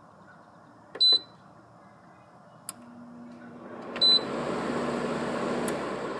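GE window air conditioner being switched on: two short, loud electronic beeps from its control panel about three seconds apart, and a fan rush that builds up in the second half. A click brings in a low steady hum that stops with another click about three seconds later, typical of a compressor with a locked rotor straining without starting before its overload cuts it out.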